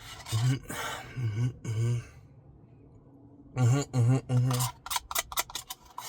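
A man's voice making short, rhythmic nonsense syllables in beatbox-like bursts, followed by a quick run of sharp mouth clicks about five seconds in.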